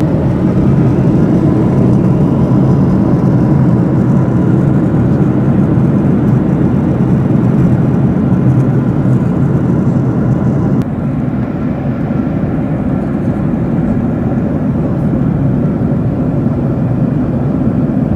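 Steady engine and air noise of a jet airliner heard inside the passenger cabin, with an abrupt slight drop in level about eleven seconds in.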